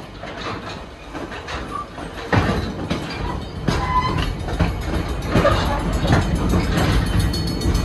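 Passenger train in motion, heard from aboard: a steady rumble of wheels on track with irregular knocks as the wheels pass over rail joints. The rumble turns suddenly louder about two seconds in.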